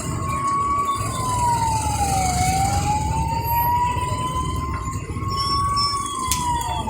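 Fire engine siren wailing: one tone that climbs slowly and then drops more quickly, about once every five seconds, over a steady low rumble.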